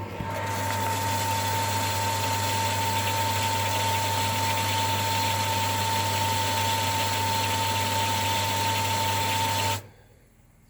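Electric water pump on a rain tank, running steadily with a hum and a high whine after its pressure controller switches it on for an open garden tap. It cuts off suddenly near the end as the line gets back up to pressure.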